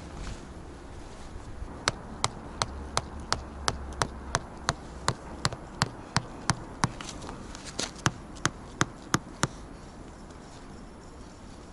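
A run of about twenty sharp, evenly spaced taps or clicks, a little under three a second, starting about two seconds in and stopping about two seconds before the end.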